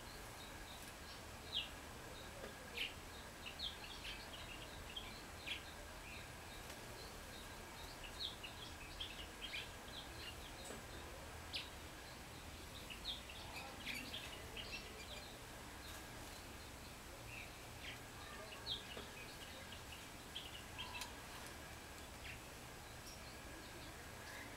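Small wild songbirds giving many short chirps and chip calls, scattered irregularly, over a steady low background rumble.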